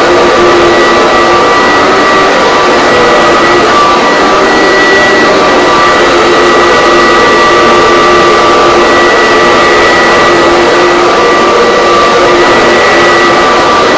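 Vacuum cleaner running steadily and loudly: a constant motor whine over rushing air, with several steady tones held throughout.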